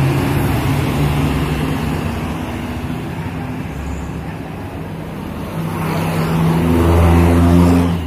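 Truck engine running steadily with a low hum, growing louder near the end as it revs up or draws closer.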